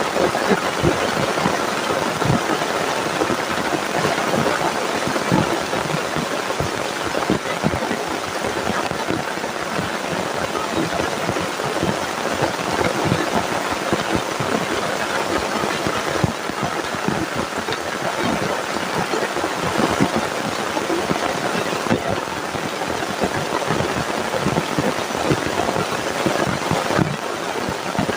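Heavy rain falling steadily, a dense patter of many drops striking close by.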